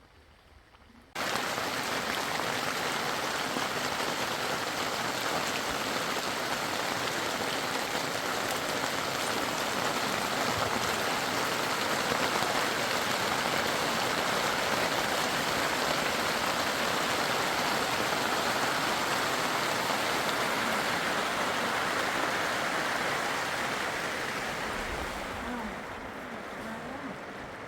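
Steady rush of water, an even hiss with no rhythm. It starts abruptly about a second in and eases off near the end.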